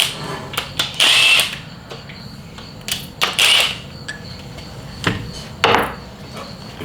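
Tools at work on an LS3 engine being taken apart: three or four short bursts of tool noise about half a second long, with scattered metallic clicks and knocks between them.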